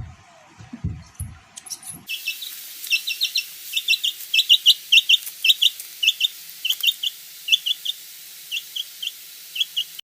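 Birds chirping: a quick series of short, high peeps, several a second, after a few low thumps in the first two seconds. The calls stop abruptly near the end.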